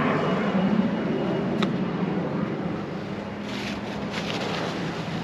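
Battery-powered caulking gun running steadily as it pushes a bead of urethane windshield adhesive, a continuous motor noise with a low hum.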